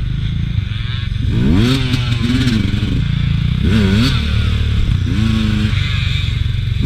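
Two-stroke engine of a Beta RR 200 enduro bike under a steady low drone, revved in several short throttle blips that each rise and fall in pitch.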